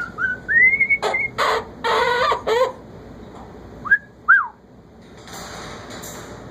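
Pet parrots whistling and squawking: rising whistles, then a run of harsh squawks, then two short whistled chirps about four seconds in.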